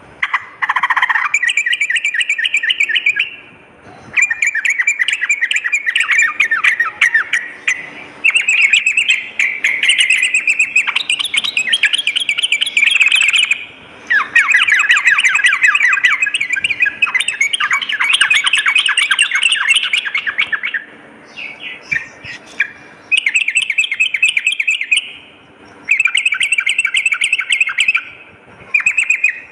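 Yellow-vented bulbul (trucukan) song: loud, rapid chattering phrases of quick repeated notes, each a few seconds long, with short pauses between them.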